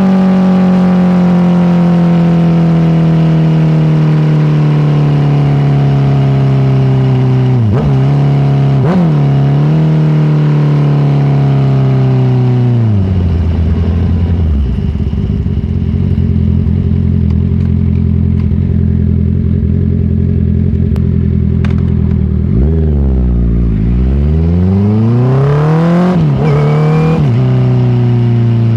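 Honda CBR650R's inline-four engine slowing with revs falling steadily and two quick throttle blips on downshifts, settling to a low steady engine speed about halfway through, then revving up again near the end with a drop in pitch at a gear change.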